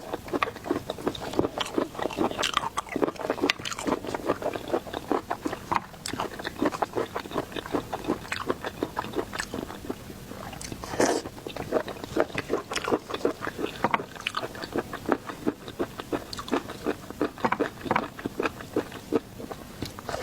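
A person biting and chewing seafood: a steady run of short crunching and smacking clicks, with a louder crunch about eleven seconds in.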